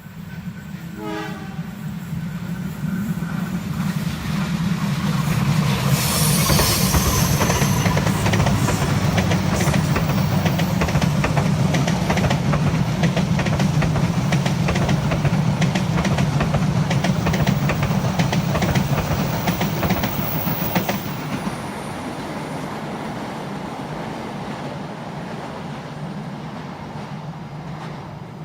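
Long train passing close by: a locomotive's low engine rumble, then a steady rapid clatter of wheels over the rails. A horn sounds about six seconds in, and the sound drops after about 21 seconds as the train moves on.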